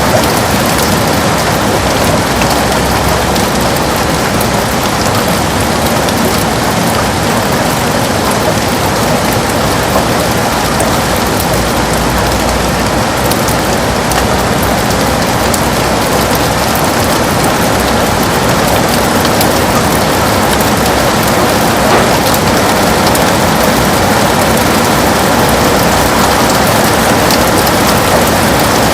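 Heavy rain falling steadily and drumming on a window, a dense even hiss with scattered individual drop taps.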